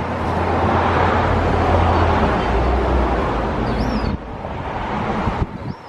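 A passing motor vehicle's low, steady drone, swelling and then cutting off suddenly about four seconds in, leaving quieter outdoor noise with a faint high chirp.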